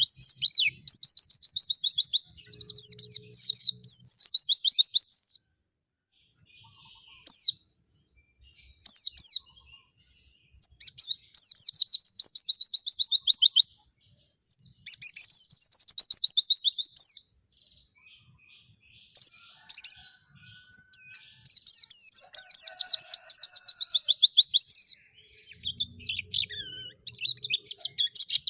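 Pleci (white-eye) in vigorous song: loud phrases of rapid, high, quickly repeated notes, each phrase a few seconds long, with short pauses between them.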